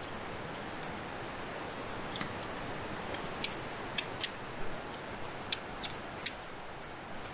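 A steady, even rushing noise, with a scattered series of light, sharp clicks from about two seconds in until past six seconds.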